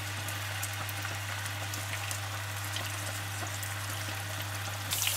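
Potato slices frying in a pan of hot oil: a steady sizzle with fine, quick crackles, over a steady low hum. The sizzle grows louder near the end.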